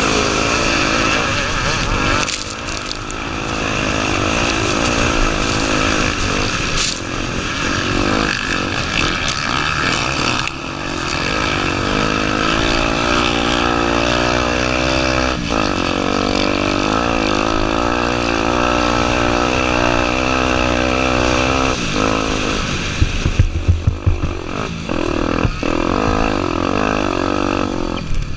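Honda Tornado 250's single-cylinder four-stroke engine running as the dirt bike is ridden, its pitch rising and falling with throttle and gear changes, over a steady rush of wind noise. Near the end comes a quick run of short knocks and thumps.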